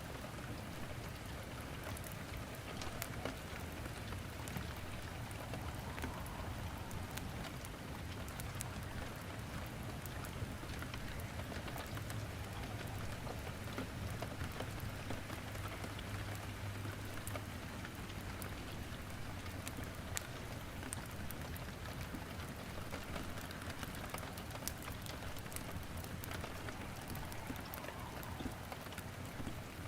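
Steady rain with wood crackling in a fireplace: a continuous hiss of rain with many small, sharp pops scattered through it.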